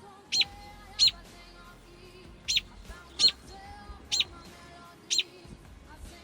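American robin giving sharp, short calls, about seven in a row roughly a second apart: the alarm calls of a parent bird guarding its nestlings.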